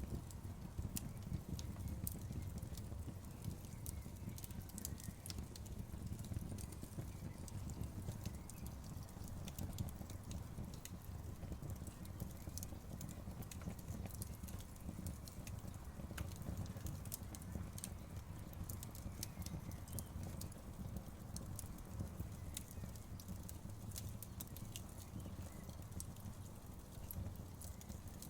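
Campfire burning, with irregular sharp crackles and pops of wood over a low steady rumble of the flames.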